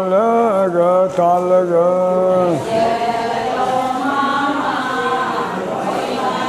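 Ponung dance-song sung in call and response: a single held, chanted line on the refrain that ends about two and a half seconds in, followed by a group of voices singing together.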